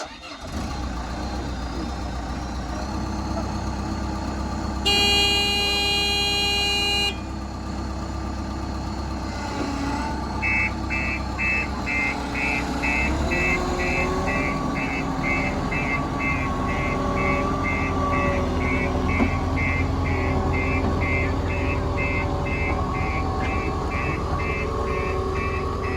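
JCB 116D single-drum road roller's diesel engine running steadily, with a horn sounding once for about two seconds. From about ten seconds in a reversing alarm beeps rapidly, about two to three beeps a second, over the engine.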